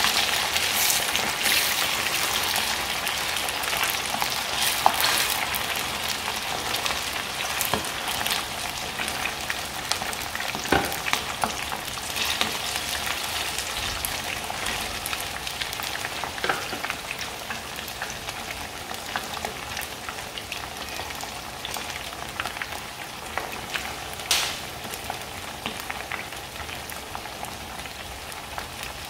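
Battered chicken wings frying in hot oil in a frying pan: a steady crackling sizzle with scattered pops, slowly getting quieter.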